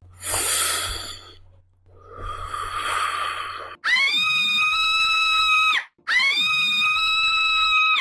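Two breathy, wheezing exhalations over a low hum, then a high, steady-pitched scream held for about two seconds and repeated identically straight after: a meme sound effect.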